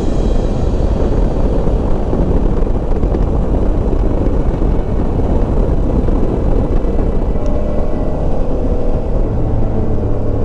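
Motorcycle underway on the road: a loud, steady rumble of engine and rushing air, with a low engine hum coming through more clearly near the end.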